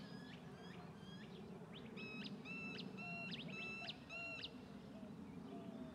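Bird chirping: a quick series of short, sharp calls, busiest in the middle, faint over a steady low background hum.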